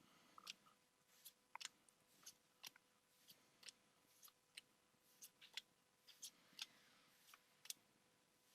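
Faint, irregular clicks of Pokémon trading cards being flicked through one at a time, about two or three a second.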